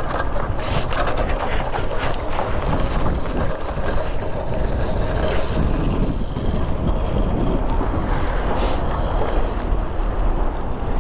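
Mini bike engine running while being ridden, picked up by a chin-mounted helmet camera, with a steady dense rush of noise.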